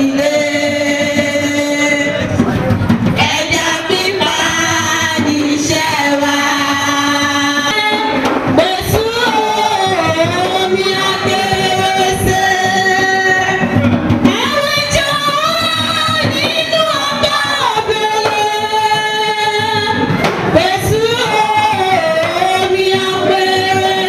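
Voices singing a traditional cultural song with music, mostly women's voices with some choir-like group singing, in long held notes without a pause.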